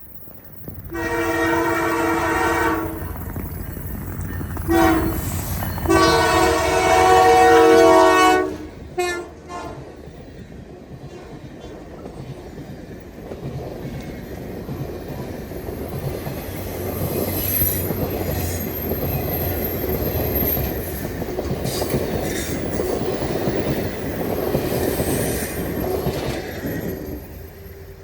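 Diesel locomotive horn of a passing train sounds three blasts: a long one, a short one, then a longer one. The train then rolls by with a steady rumble of wheels on rail.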